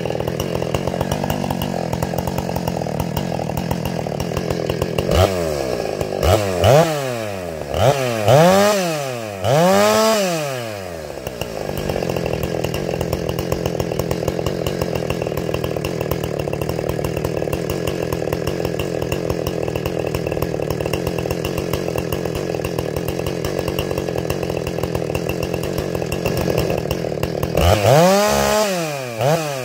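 Ported, muffler-modified Husqvarna 455 Rancher two-stroke chainsaw idling steadily. Its throttle is blipped four times in quick succession about a third of the way in, and twice more near the end, each time the engine revving up and dropping back to idle.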